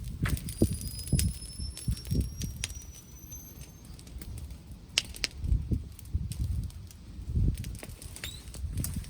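Wood bonfire crackling with scattered sharp pops over low, gusty rumbles of wind buffeting the microphone.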